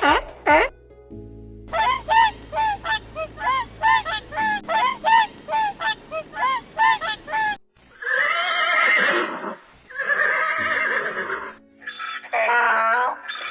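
Animal calls: a quick run of short, pitched calls, about three a second. About two-thirds of the way through, two long, harsh calls of about a second and a half each follow, then a few shorter calls near the end.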